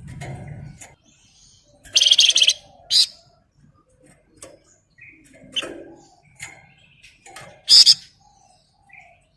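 A Flamboyan songbird (Wergan Jawa) singing in short, loud bursts of rapid, dense chattering ('ngebren'). The loudest bursts come about two seconds in and again near the end, with softer scattered chirps between.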